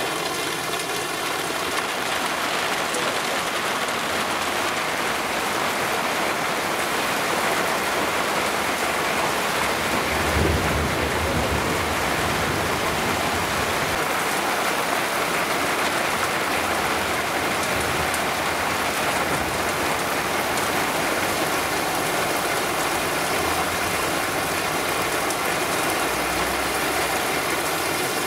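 Heavy rain falling steadily in a cloudburst, with a brief low rumble about ten seconds in.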